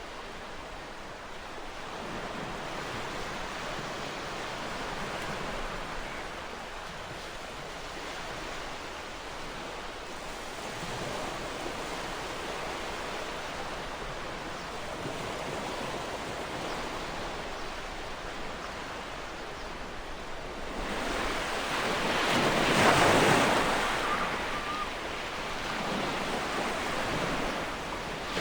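Ocean surf: a continuous wash of waves. A bigger wave swells and breaks about three-quarters of the way through, the loudest moment, then subsides.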